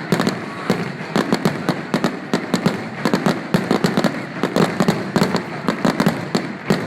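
Fireworks display: a dense, unbroken string of sharp bangs and pops, several a second, over a steady crackle.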